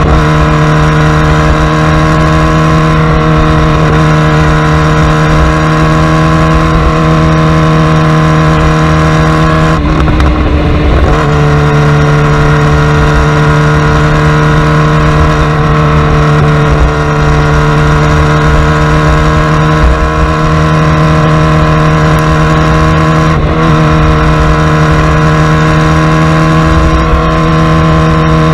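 Superbike engine running at steady, unchanging revs, with a brief break in the tone about ten seconds in.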